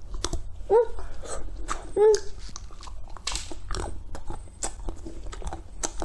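Close-up crunching as a crisp, fruit-flavoured chocolate figure is bitten and chewed, a run of sharp crackly crunches. Two short hummed 'mm' sounds come about one and two seconds in.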